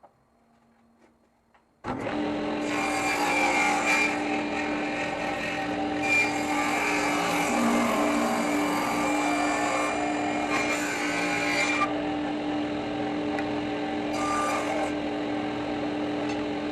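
Electric power saw switches on about two seconds in and runs steadily, its blade cutting into wood in several passes as the rounded edge of a board is trimmed off square.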